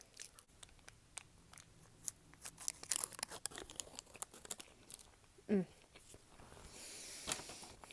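Close-up eating of fast food: small crunches, chewing clicks and the crinkle of a paper wrapper, with a short voiced hum about five and a half seconds in.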